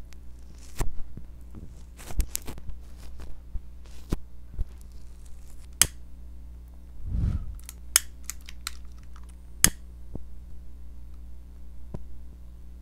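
Close-up handling sounds on a tiny novelty microphone: slime crackling and squelching as the mic head is pushed into it. Then scattered sharp clicks and a short low rumble about seven seconds in, as a lit utility lighter flame is held against the mic head.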